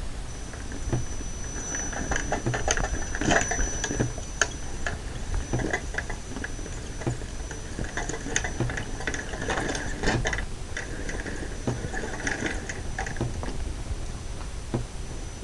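Radio-controlled crawler truck driving in short bursts: its small electric motor and gears whine each time it is throttled, with frequent clicks and rattles, over a thin steady high whine.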